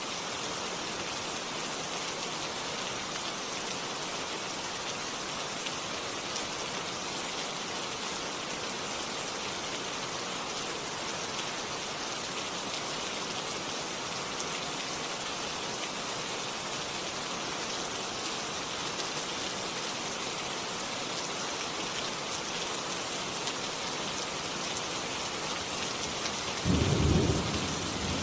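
Steady heavy rain falling, an even hiss of drops. Near the end a short, low rumble of thunder rises above it for about a second and a half.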